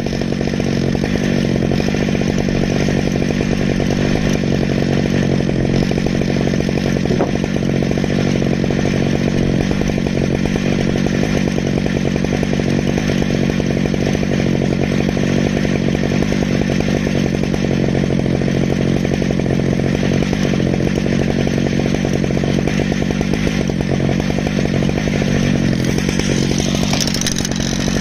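Stihl MS881 two-stroke chainsaw on an Alaskan chainsaw mill, running steadily at high revs as it cuts a slab from an ash log.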